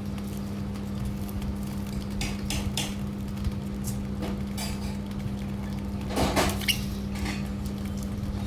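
Light clicks and scrapes against a dish, scattered and irregular, loudest in a cluster about six seconds in, over a steady low hum.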